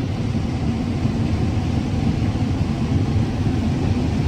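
Combine harvester running steadily while harvesting corn: an even, low machine drone with a faint steady hum through it.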